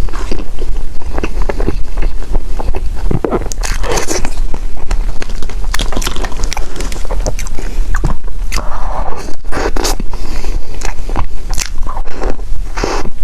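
Close-miked biting and chewing of food: a dense, irregular run of short clicks and smacks, over a steady low hum.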